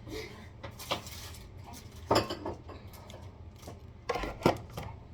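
A cheap hand-held can opener working on a metal can: scattered sharp metallic clicks and clanks, loudest about two seconds in and again about four seconds in.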